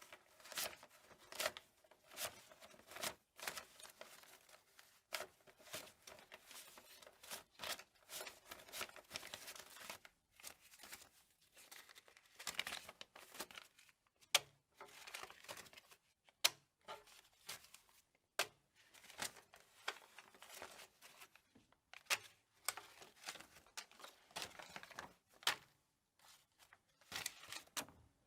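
Paper banknotes being counted by hand: an irregular run of crisp paper flicks and rustles, with short pauses between runs.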